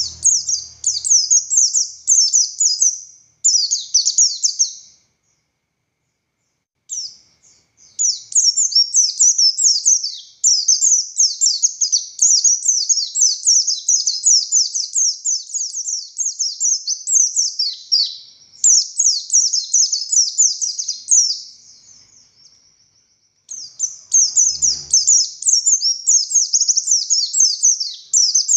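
Pleci buxtoni white-eye singing in long, fast, high-pitched chattering phrases, breaking off twice for a second or two.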